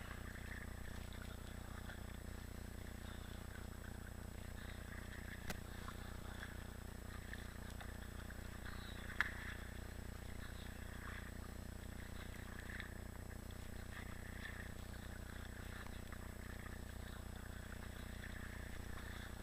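Two-person kayak on the water: faint, irregular paddle splashes and water sounds over a steady low rumble, with one sharp knock about nine seconds in, likely a paddle striking the hull.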